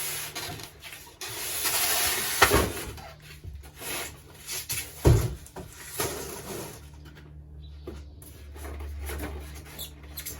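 Cardboard box and styrofoam packing being handled and pulled out, rubbing and scraping, with knocks and two sharp thumps, about two and a half and five seconds in, the loudest.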